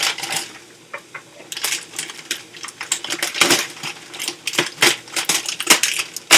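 Irregular clicks, crackles and small clatter as broccoli is handled and broken up for the pans, over a faint background hiss.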